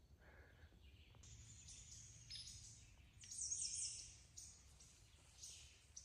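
Faint bird calls, with a short cluster of high chirps about three and a half seconds in, over a quiet background.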